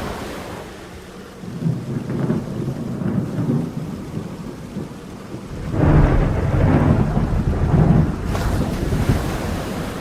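Rain falling with rolling thunder: a low rumble swells about two seconds in, and a louder, longer rumble comes from about six seconds.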